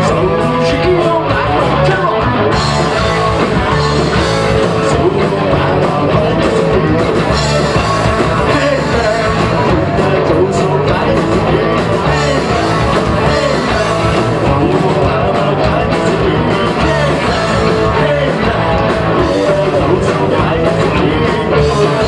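Live punk rock band playing loud: distorted electric guitar, bass and drums, with singing over it.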